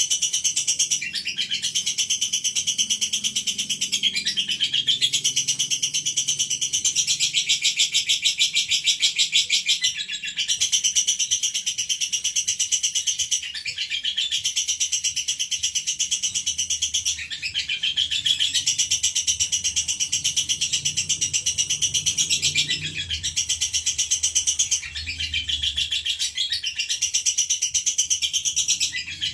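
Female lovebird singing in long, very rapid, high chattering trills, each run lasting several seconds with short breaks between.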